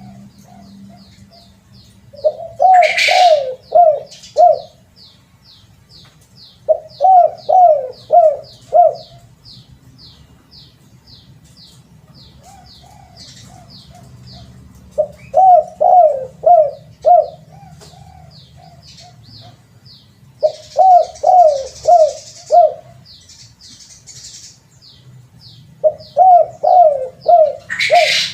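Spotted dove (terkukur) cooing: five phrases of four or five quick, arched coos each, repeated about every five seconds.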